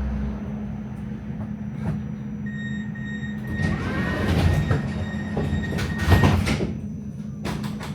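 Melbourne tram running, heard from inside the car: a steady low motor hum, a thin high steady tone lasting a few seconds, and loud rattling and clattering of wheels and body in the middle, with sharp knocks near the end.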